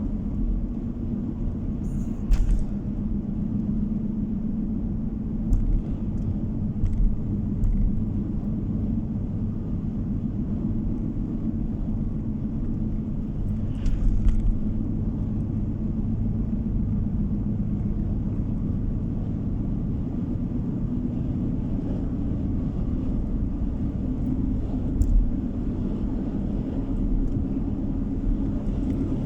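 Car driving along a road, heard from inside the cabin: a steady low rumble of tyre and engine noise, with a few brief knocks and clicks scattered through.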